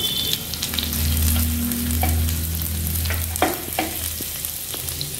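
Chopped ginger and garlic sizzling in melted butter in a nonstick frying pan, stirred with a steel ladle that clicks against the pan a few times about three seconds in. A low hum sits under the sizzle for a couple of seconds.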